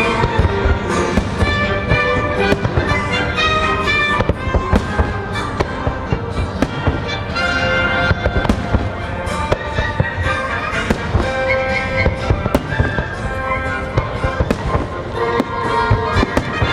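Fireworks bursting in rapid, irregular bangs and crackles, over the fireworks show's accompanying music.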